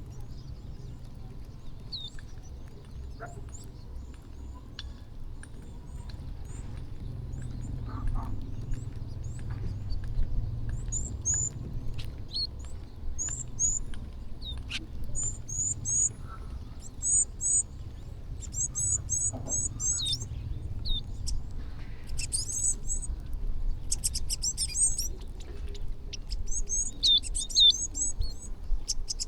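A flock of small birds chirping while feeding, short high chirps that grow busier and louder in the second half, over a steady low rumble.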